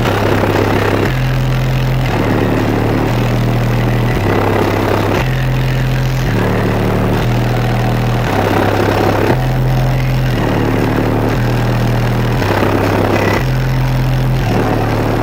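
Bass-heavy music played loud on a truck's car-audio system, its Nightshade v3 speakers pushing a stepped bassline of deep notes that change about once a second, with a beat over it.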